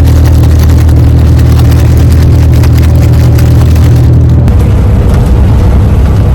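Dirt-track race car engines running loud and steady, with an abrupt change in the sound about four and a half seconds in.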